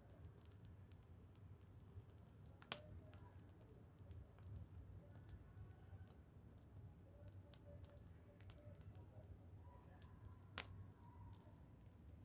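Faint, irregular crackling and ticking from a burning bonfire, with two sharper snaps, one about three seconds in and one near the end.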